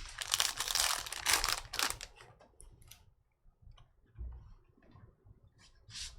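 Trading cards and pack wrappers being handled: a dense rustle and slide for about the first two seconds, then scattered light clicks and taps, with a short rustle near the end.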